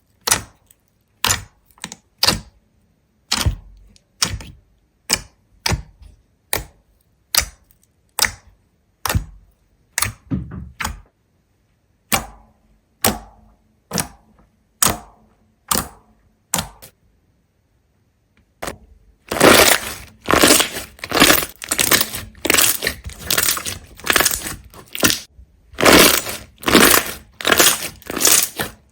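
Crisp cracks, one every second or less, each short and sharp, then after a short pause, from about two-thirds of the way in, a fast run of louder crunching, as of something brittle being broken and crushed.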